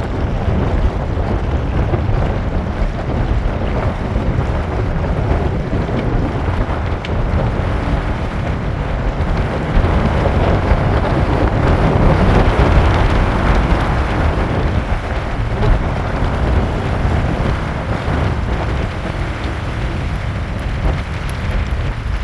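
Outdoor wind and rain ambience, with wind rumbling on the microphone. It swells louder for a few seconds around the middle, then eases.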